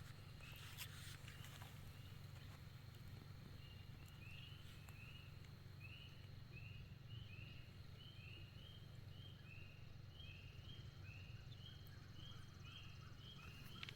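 Faint outdoor quiet with a small bird calling in the distance: short, slightly rising chirps on one pitch, repeated about twice a second from a few seconds in, over a low steady rumble.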